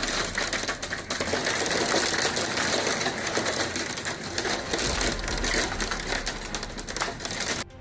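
Golf-ball-sized hailstones pelting down in a dense, rapid clatter of hits, over a low rumble. The sound cuts off suddenly near the end.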